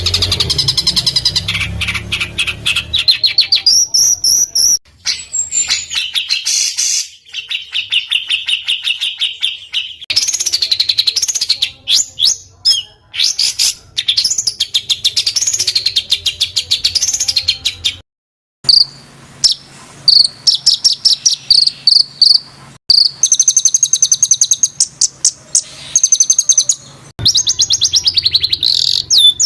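Small songbirds singing fast, harsh trills: rapid rolls of tightly packed notes, steady buzzing runs and rising-and-falling warbled phrases, the 'roll rapat' and 'tembakan kasar' song types used to tutor Indonesian contest birds. The song cuts out briefly about two-thirds of the way through.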